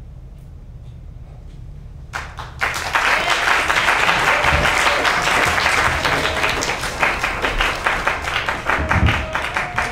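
Audience applause breaking out about two seconds in, quickly swelling and carrying on steadily. Music comes in faintly beneath it in the second half.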